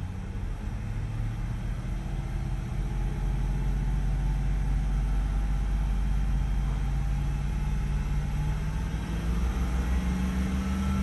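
BMW 650i's 4.8-litre V8 running at a steady idle: an even low rumble that grows a little louder about three seconds in.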